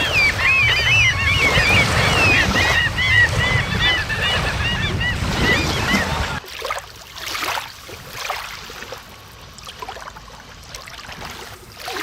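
Many birds calling in short, arching cries over a steady low rush of wind and waves. About six seconds in it cuts off suddenly, leaving a quieter, softer water sound.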